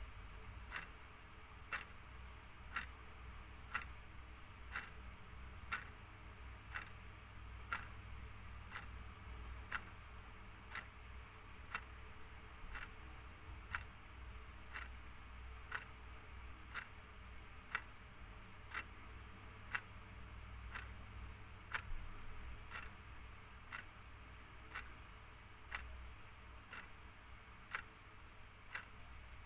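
Clock ticking steadily, one tick about every second, over a faint low hum.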